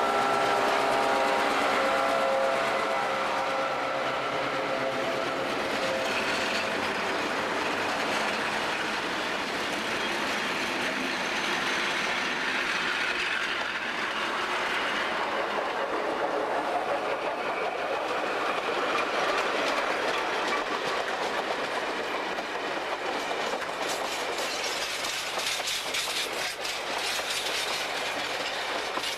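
A diesel locomotive's multi-note air horn sounds a chord in the first few seconds and fades. Then a train runs past, with its wheels clicking over the rail joints, the clicks thickest near the end.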